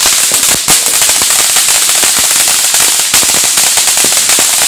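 Consumer firework going off in a dense, rapid crackle of many small pops over a steady hiss.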